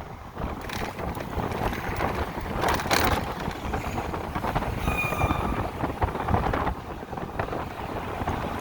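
Wind buffeting the microphone while riding an electric motorcycle, a steady rushing rumble with no engine note. There is a louder gust about three seconds in and a brief faint high tone about five seconds in.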